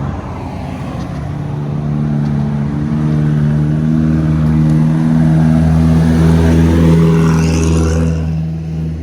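Diesel engine of a heavily loaded truck labouring past at a steady pitch, growing louder to a peak about seven seconds in, then dropping away.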